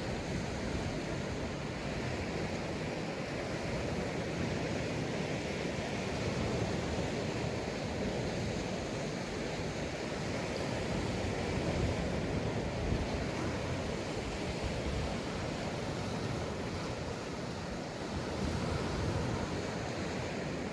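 Sea waves breaking and washing up a sandy beach in a steady, even rush that swells and ebbs gently, with some wind on the microphone.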